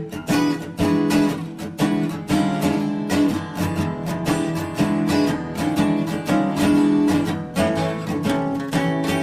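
Acoustic blues guitar background music, with plucked and strummed notes in a steady rhythm.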